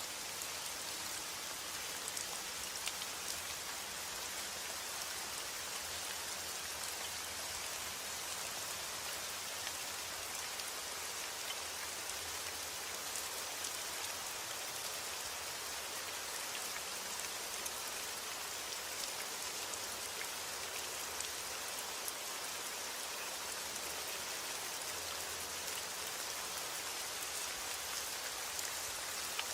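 Heavy rain falling steadily on a roof: an even hiss with a fine patter of individual drops.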